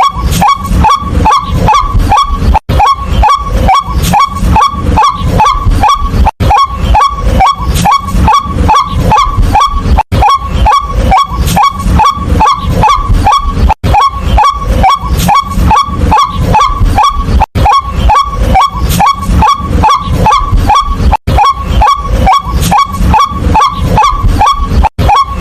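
White-breasted waterhen calling over and over: a loud, rapid series of short notes, each sliding down in pitch, about two or three a second, broken by a brief gap every three to four seconds.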